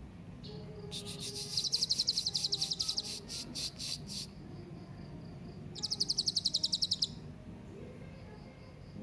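Hanging parrot (serindit) calling: a run of rapid, high-pitched chirps about a second in that lasts some three seconds, then a second, shorter run past the middle.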